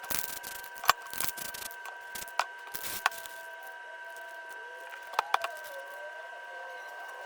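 Scattered sharp clicks and taps, as of small hard objects being handled, with a hiss through the first three seconds. A steady high-pitched hum runs underneath.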